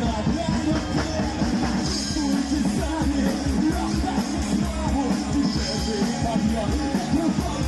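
A rock band playing loudly and steadily, with a singer's voice over it.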